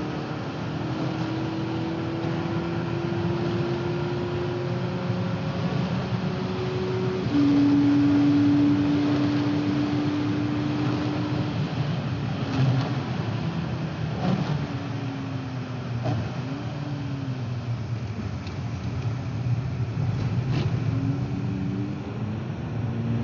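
Volkswagen Polo GTI (AW) 2.0-litre turbocharged four-cylinder engine pulling hard, heard from inside the cabin. The engine note climbs steadily, then drops at a gear change about seven seconds in and gets louder. The pitch falls and wavers with a few sharp clicks as the car slows for a corner, then climbs again near the end.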